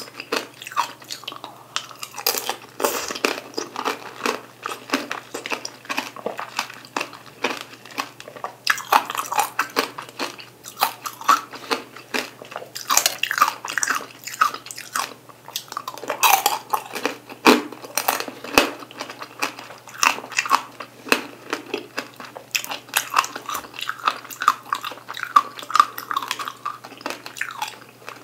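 Chewing and crunching of tanghulu, mandarins and cherry tomatoes in a hard candy shell, with many sharp cracks of the sugar coating breaking.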